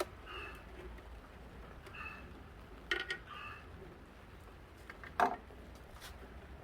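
Sporadic metallic clinks and knocks of hand tools and metal parts being handled, a few sharp knocks with short ringing clinks between them.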